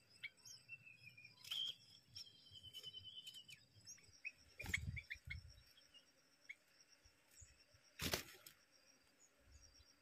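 Faint, short high chirps and peeps from small birds at a bulbul nest with begging nestlings, broken by brief bursts of wing flutter and rustling as the parent bulbul leaves and comes back to the nest. One flutter comes about halfway through with a soft thud, and the loudest about eight seconds in.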